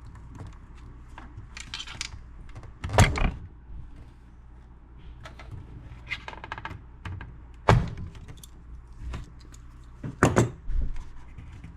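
Pliers wrapped in cloth gripping and tugging at stuck knobs on a stereo's front panel: scattered knocks and clunks, the loudest about three seconds in, near eight seconds and around ten seconds. The knobs stay stuck.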